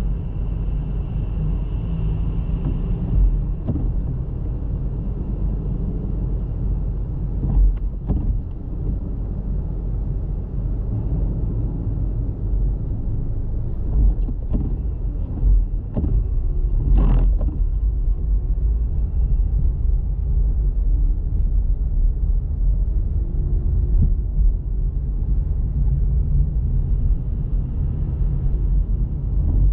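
Car driving on a snowy road: a steady low road and engine rumble, with a few short knocks and one sharper thump about seventeen seconds in.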